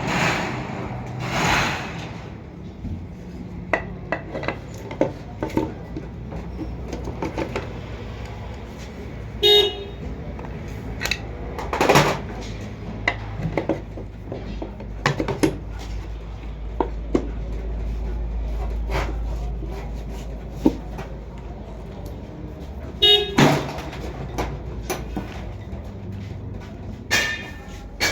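Metal tools and engine parts clinking and knocking in scattered, irregular strikes during hand assembly of an auto-rickshaw engine and gearbox, over a steady low hum. A vehicle horn toots briefly twice, once about a third of the way in and again near the end.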